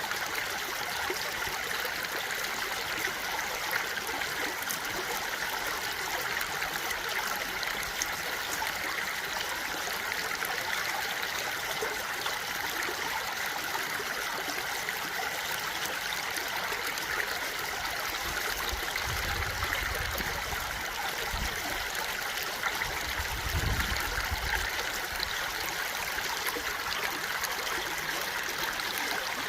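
Flowing stream, a steady even rush and trickle of water. A low rumble comes in twice in the second half.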